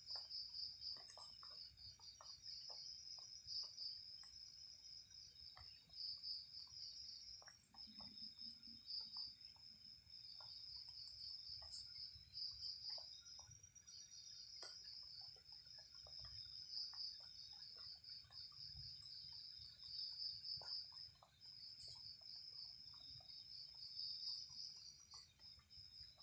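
Night insects chirping in a faint, steady, high-pitched chorus that pulses without break, with scattered faint clicks.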